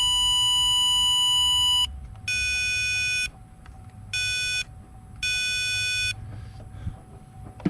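Electronic beeping from a circuit tester as its probe touches live pins in a relay socket. One steady beep cuts off about two seconds in, then three shorter beeps of uneven length follow, each marking a probe contact that finds voltage.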